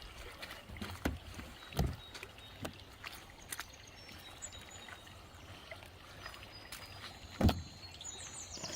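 Water sloshing and splashing as a carpet is washed by hand, with a few dull thuds, the loudest about seven and a half seconds in. Short high chirps near the end.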